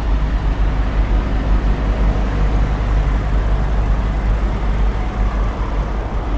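Semi-truck's diesel engine running steadily with a deep low rumble.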